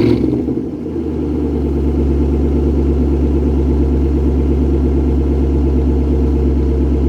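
2007 Ford Mustang GT's 4.6-litre V8, just started, coming down from its start-up flare about a second in and settling into a loud, steady idle that sounds pretty aggressive.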